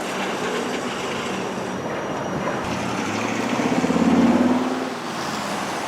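CSX freight train rolling past, a steady rumble of wheels on rail. About three and a half seconds in, a pulsing low engine drone swells and then fades about a second later.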